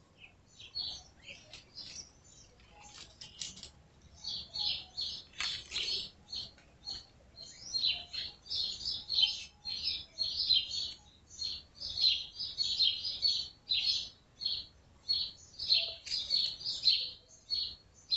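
Small birds chirping busily: many short, high chirps in quick succession, growing denser and louder about halfway through.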